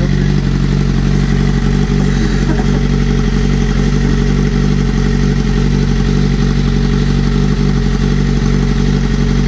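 Motorcycle engine idling steadily and loudly through a straight-piped exhaust with the slip-on muffler removed.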